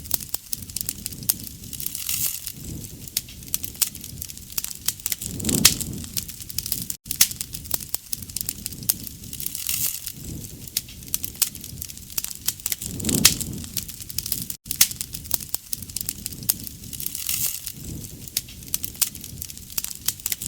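Campfire burning with dense sharp crackles and pops over a low rumble, swelling every few seconds. Brief gaps of silence come about every seven and a half seconds.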